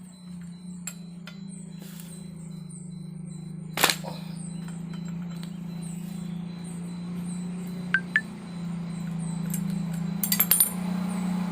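Sharp metallic clinks of work on a brush cutter's blade: one about four seconds in, two close together near eight seconds, and a quick run of several near the end. Under them runs a steady low engine-like hum that grows a little louder.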